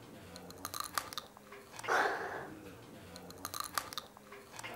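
Crisp crunches of a raw green Cheongyang chili pepper being bitten and chewed, in two clusters of quick clicks, with a short breathy sound about two seconds in.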